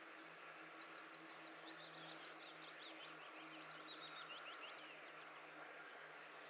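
Faint bird song: a quick run of high chirps and trills lasting a few seconds, over a steady low hum.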